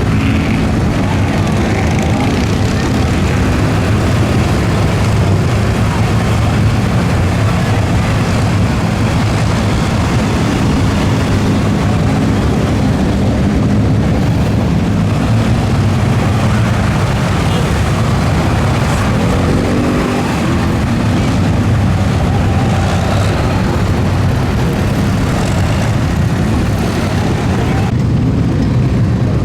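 Loud, steady engine noise from mud trucks running at a mud bog, with a brief rise and fall in pitch about two-thirds of the way through.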